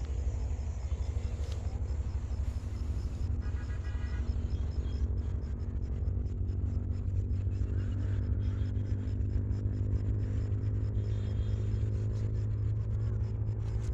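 A motor engine running steadily with a low rumble; its pitched hum grows stronger from about halfway through.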